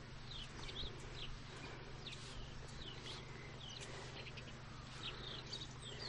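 Small birds chirping: short high notes that glide up or down, about two a second, over a low steady rumble.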